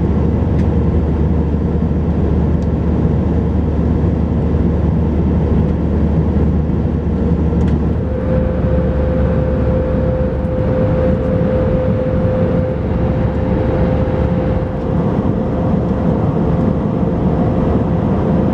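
Steady roar inside the cabin of an Airbus A321 in flight: engine and airflow noise, with a steady hum that comes in about halfway through.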